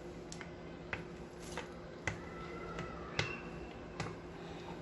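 Rolling pin rolling out a stack of layered dough, with a sharp click roughly every half second to second, about seven in all.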